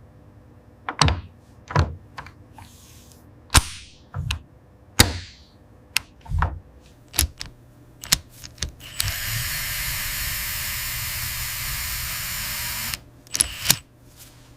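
Factory assembly sound effects: a string of sharp mechanical clicks and clacks like tools and fasteners, with two short hisses. About nine seconds in, a steady hiss like released compressed air starts, runs for about four seconds and stops abruptly, then the clicks return.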